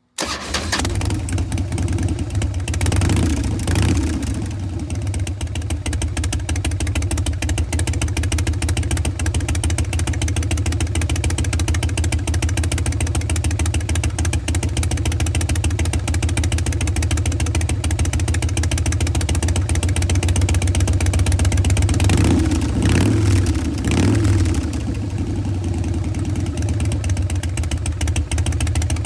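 2014 Harley-Davidson Breakout's V-twin running through a Bassani Pro Street Turnout exhaust, idling with the lumpy Harley three-beat rhythm. The sound swells briefly about three seconds in and again around twenty-two seconds in.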